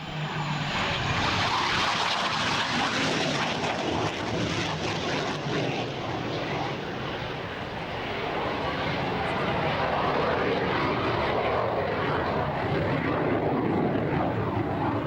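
Hawker Hunter jet fighter flying past, its Rolls-Royce Avon turbojet making a loud, steady jet noise that comes in suddenly, with a thin high whine in the first second, easing slightly midway and then building again.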